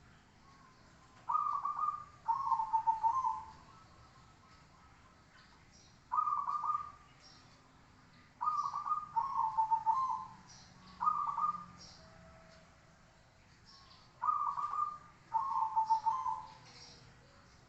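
Zebra dove (perkutut) cooing: about eight short phrases of rapid, stuttering notes, mostly in pairs, separated by pauses of a second or more. Faint high chirps sound between them.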